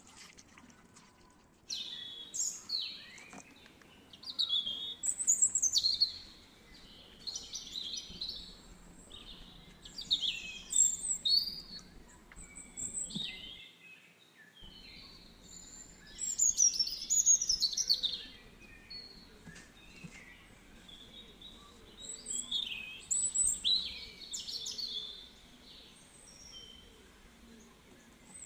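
Birds singing: clusters of quick high chirps and warbling phrases, repeating every second or two, over a faint steady hiss.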